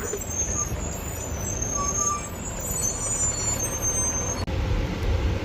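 Garbage truck running while driving: a steady low rumble with a faint high whine over it. The sound changes abruptly about four and a half seconds in.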